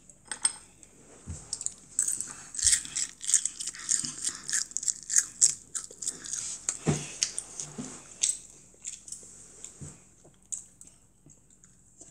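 A child chewing food close to the microphone: wet, crackly mouth clicks and crunching, busiest through the middle, thinning out near the end.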